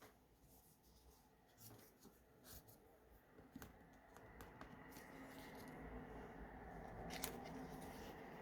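Pages of a handmade paper junk journal being handled and turned: faint paper rustles and soft taps, with a sharper click about seven seconds in.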